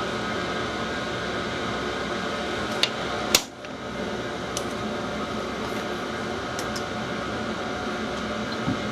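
Steady background hum of a running machine or fan, with a light click about three seconds in and a sharper click just after.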